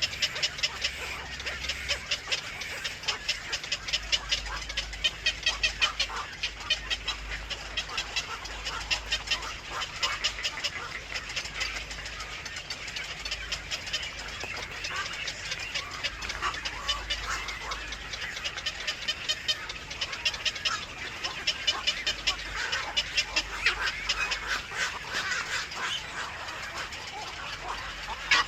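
Birds calling in runs of rapid, repeated sharp notes, high-pitched, with a low hum underneath.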